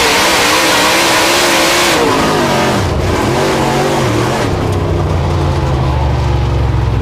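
Dirt late model race car's V8 engine at high revs, its pitch wavering with the throttle, then falling off steeply about two to three seconds in. It settles into a low, steady rumble for the rest.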